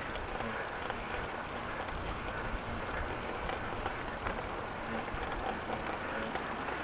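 Steady rushing noise of riding a bicycle along pavement, with faint small clicks and rattles scattered through it.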